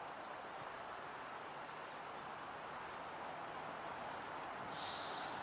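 Steady outdoor background hum with a few faint distant chirps, and one short, high bird chirp that steps up in pitch near the end.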